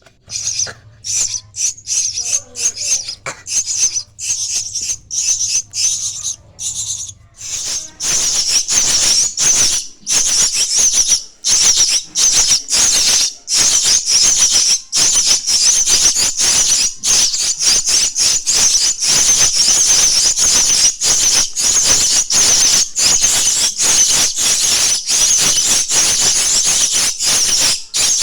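Starling chicks giving harsh, rasping begging calls in rapid runs, sparse at first and then continuous and much louder from about eight seconds in.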